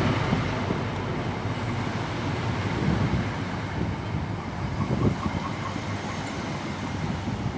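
InterCity 125 High Speed Train drawing into the station to stop, a steady rumble of wheels on the rails that slowly eases off.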